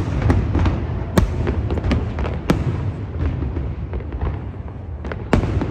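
Aerial fireworks display bursting: a run of sharp bangs, the loudest about a second in, midway and near the end, with smaller crackles between them over a steady low rumble.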